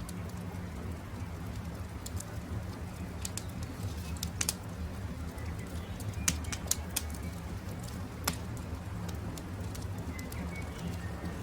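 Campfire crackling, with scattered sharp pops over a steady low rumble, while birds call in the background.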